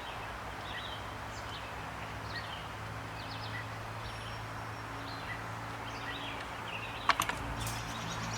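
Small birds chirping in short scattered calls over a steady low hum, with a few sharp clicks of hand tools or small metal parts about seven seconds in.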